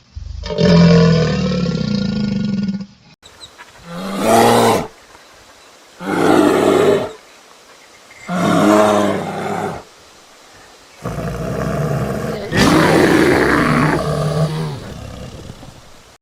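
A big cat roaring: four separate roars a second or two apart, the last the longest. A different pitched animal call comes before them and ends at a cut about three seconds in.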